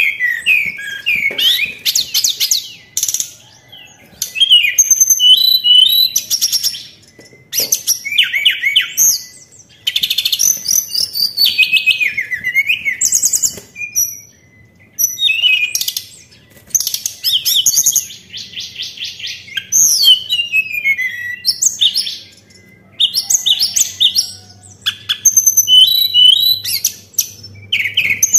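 Tledekan songbird singing a loud, varied song: bursts of high whistles, rapid trills and falling sweeps, repeated every couple of seconds with brief pauses. This is a lure song of the kind played to draw other caged birds into song.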